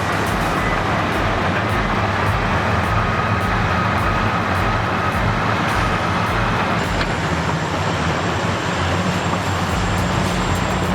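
Caterpillar 657 and 651 wheel tractor-scrapers' diesel engines running steadily under load.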